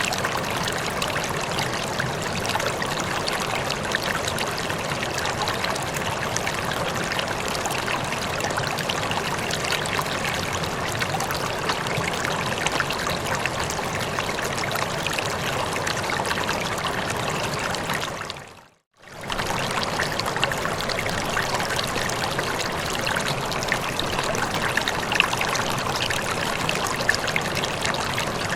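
Running water, a steady splashing rush that briefly fades out to silence about two-thirds of the way through and comes straight back.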